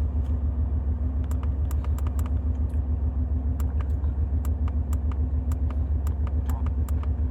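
BMW 320d four-cylinder diesel engine idling with a steady, evenly pulsing low rumble and scattered faint clicks; the engine has a misfire traced to cylinder 3 with an injector activation fault (code 443C).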